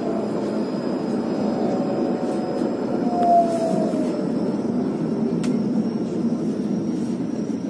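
Steady running rumble of a train, heard from inside the carriage, with a brief tone sliding downward about three seconds in.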